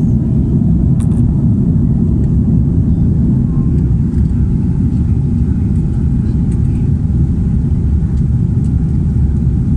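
Steady, deep noise of an Airbus A330-300's engines and rushing air, heard inside the passenger cabin.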